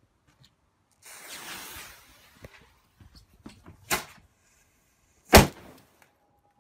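Handling noises: a rustle about a second in, a few small clicks, then two sharp knocks, the second louder, near the end.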